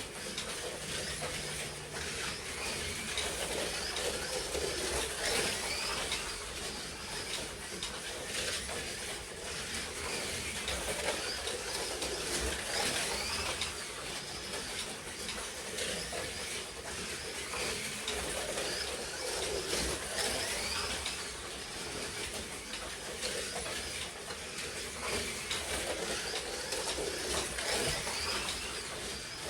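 Slot cars racing on a track: several small electric motors whirring steadily, their pitch wavering up and down as the cars speed up and slow down through the lap.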